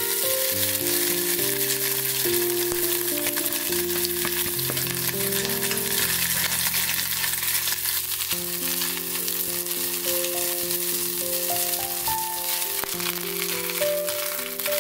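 Dried whitebait sizzling and crackling as it fries in hot sesame oil in a small stainless saucepan, stirred with a spatula.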